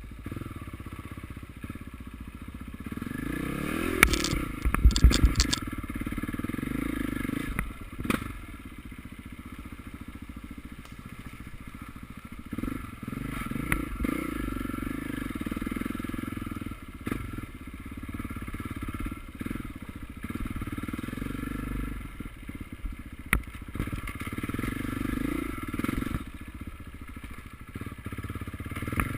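Motocross dirt bike engines revving, the sound swelling and fading as bikes pass, with a burst of loud clattering knocks about four seconds in.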